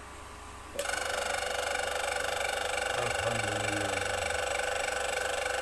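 A small electric motor runs at a steady speed with a high, even whine, starting abruptly about a second in and running for about five seconds.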